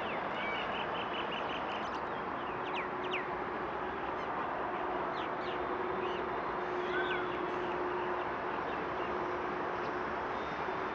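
Birds calling: a quick run of chirps about a second in, then several sharp sweeping calls, over a steady background noise with a faint hum.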